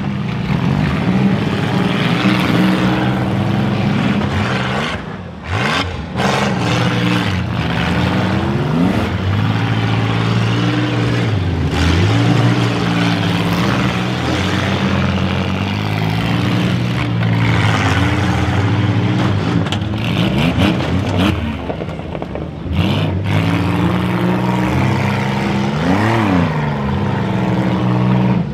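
Engines of several 1990s-and-newer demolition derby cars revving at once, their pitches rising and falling as the cars accelerate, back up and push against each other.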